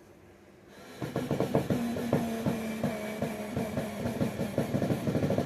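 Power driver running with a steady motor tone and rapid, rattling knocks, starting about a second in.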